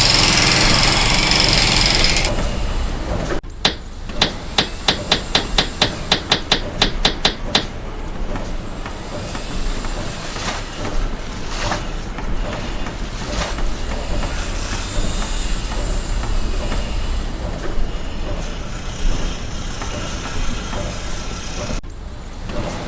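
A fast, regular run of about fifteen hammer-like strikes, about four a second, lasting some four seconds. Before it comes a short burst of loud hissing machine noise, and after it steady work-site noise with a few scattered knocks.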